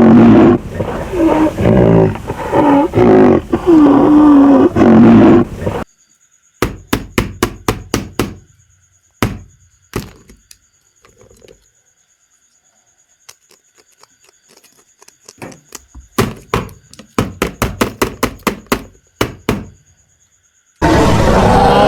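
A loud recorded animal roar with a wavering pitch for about six seconds, followed by two runs of sharp clicks and taps with quiet gaps between them. Music starts about a second before the end.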